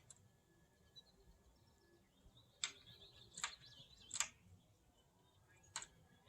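A small bird pecking at a chrome surface: four sharp taps, the first three under a second apart and the last after a longer pause, with faint high chirping between the first and third taps.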